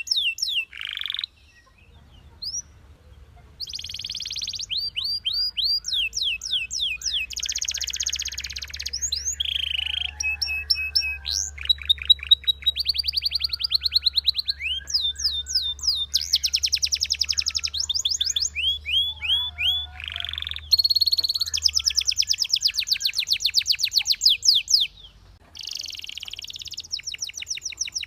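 Belgian canary singing: a long song of fast trills and rapid runs of repeated, downward-sweeping high notes, broken by short pauses about two seconds in and near the end.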